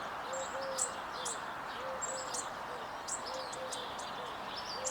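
Birds calling: high, quick chirps and a low, repeated two-note call, over a steady background hiss.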